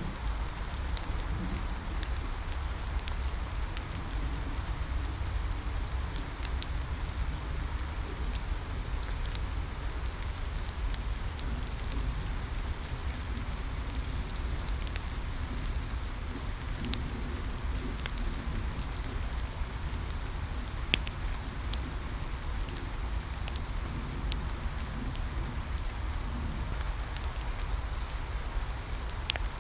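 Steady rain falling, with the crackle of a bonfire: scattered sharp pops and snaps over the even hiss, one louder pop about twenty seconds in.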